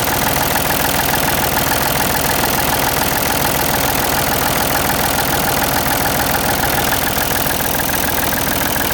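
Ford 555 backhoe loader's diesel engine idling steadily.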